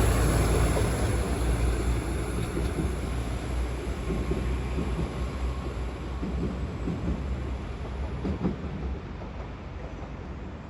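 Northern Class 195 diesel multiple unit pulling out and running away, its low rumble fading steadily, with a couple of sharp clicks about eight seconds in.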